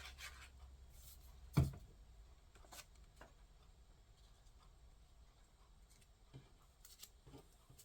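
Faint handling of paper craft pieces on a tabletop, with one sharp knock about one and a half seconds in and a few soft ticks after.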